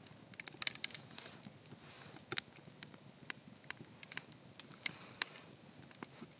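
Wood campfire crackling, with sharp, irregular pops and snaps over a faint steady hiss.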